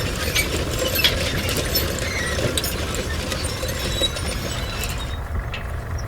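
Steady low mechanical rumble with many small clicks and metallic clinks scattered over it, typical of working site machinery.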